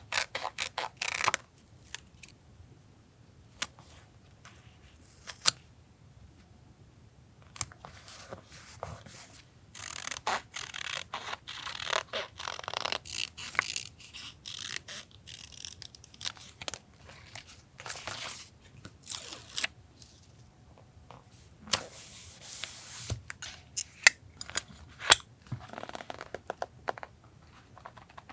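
Close-up paper crafting for a collage journal: paper and stickers rustling and tearing in irregular stretches, with scattered sharp taps and clicks.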